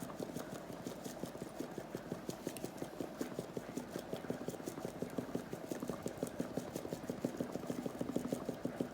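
A Parmesan cheese shaker being shaken repeatedly over a bowl: a quick, even run of soft knocks, about five a second.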